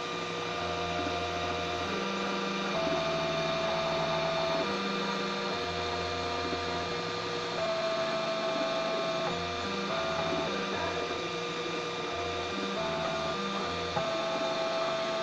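3D printer's stepper motors whining as the print head moves, the tones jumping to a new pitch every half second to two seconds.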